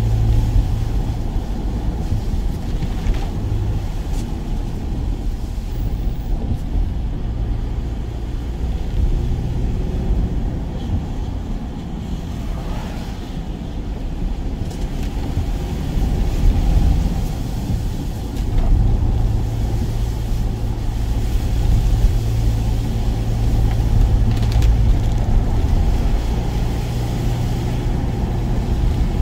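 Work van's engine running with road noise: a steady low drone whose engine note fades and returns.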